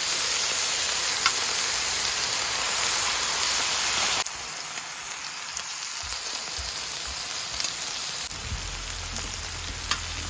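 Pork belly sizzling on a large cast-iron pot-lid griddle (sotttukkeong): a dense steady hiss with a few small pops of spattering fat. The sizzle drops suddenly in level about four seconds in.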